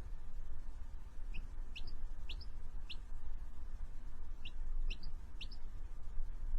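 Small bird chirping in two quick bursts of short, high, upward-sweeping notes, over a steady low hum.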